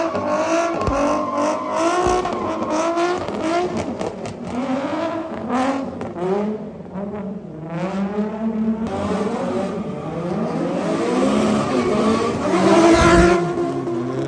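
Car engine revving with tyre squeal, the pitch wavering up and down and loudest near the end.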